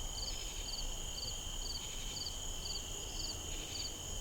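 Night insect chorus of crickets: a steady high-pitched trilling, and over it a short three-pulse chirp that repeats about twice a second.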